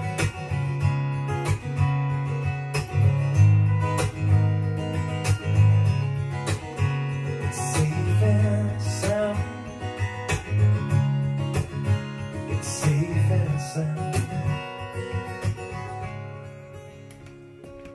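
Strummed acoustic guitar playing an instrumental break between sung lines of a singer-songwriter's live song, the chords fading down over the last few seconds.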